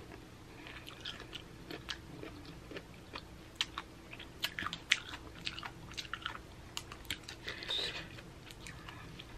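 Close-up chewing of a mouthful of Nature's Cereal, fruit and ice in coconut water, with many short, crisp crunching clicks.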